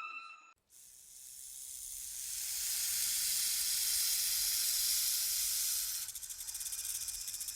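A loud, high hiss that swells over the first few seconds, then breaks into a fast pulsing about six seconds in.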